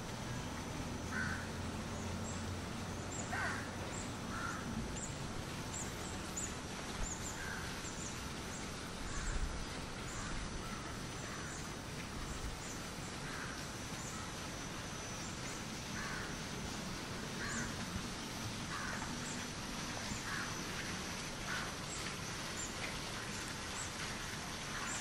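Birds calling: scattered short calls mixed with many brief high chirps, over a steady hiss of outdoor background noise.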